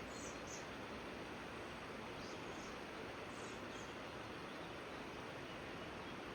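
Steady rushing of river water, with a bird giving faint high chirps in pairs three times, near the start, about two seconds in and about three and a half seconds in.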